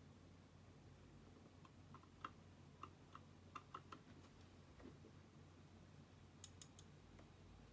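Faint, scattered clicks and taps of small hard parts being handled, then three sharp clicks in quick succession near the end, over a low steady hum.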